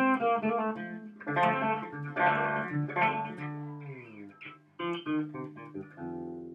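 Six-string fretless bass played through its bridge pickup alone. A run of plucked notes with sliding, gliding pitch, a short break about four and a half seconds in, then a held note ringing out near the end.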